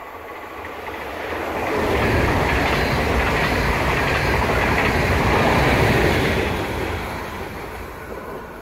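NS yellow-and-blue double-deck electric train passing through the station without stopping. The rush and rumble of its wheels on the rails swells over about two seconds, stays loud for about four, then fades as it goes away.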